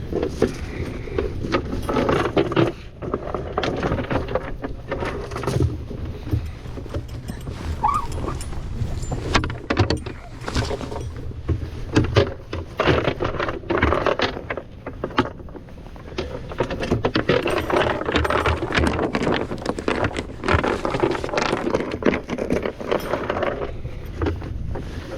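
Anchor chain rattling and clanking out over the yacht's bow in irregular runs of metal-on-metal clatter, over a steady low hum.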